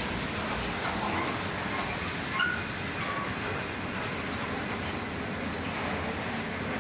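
Freight train's container wagons rolling past on steel rail, a steady rumble of wheels, with a short, high wheel squeal about two and a half seconds in.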